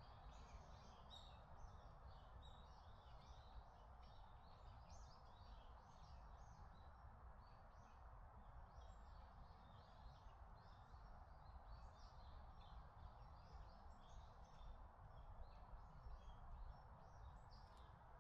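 Faint forest ambience: small birds chirping and calling in quick, overlapping notes throughout, over a steady low background rumble.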